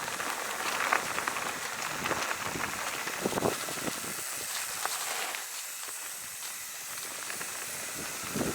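Mountain bike rolling over a dirt trail: a steady gritty hiss of tyres on grit and gravel, with a few faint clicks and knocks from the bike.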